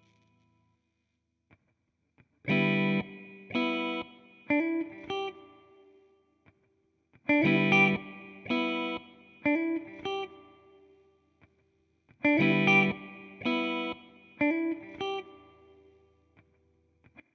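Electric guitar played through a TC Electronic Flashback delay pedal: the same short phrase three times, each opening with two loud chords followed by quieter, fading repeats of the delay.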